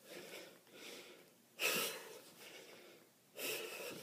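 A man breathing hard through a set of kettlebell swings, with a forceful exhale on each swing, about every two seconds; two strong exhales come near the middle and near the end.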